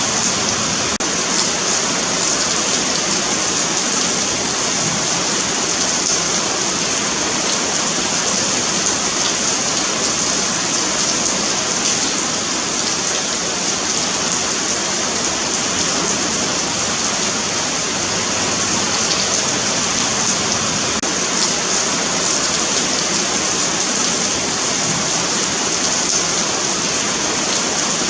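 Steady rain falling on a paved sidewalk, an even hiss of drops with faint scattered patters on the pavement.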